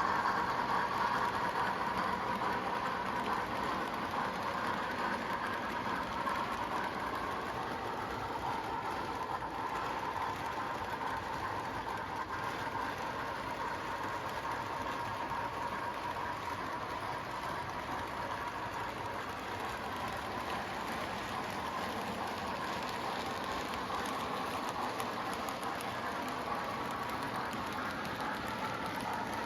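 HO scale model of a Duluth Missabe & Iron Range Yellowstone locomotive running on layout track: a steady whir of motor and wheels on rail, easing down slightly over the first several seconds and then holding steady.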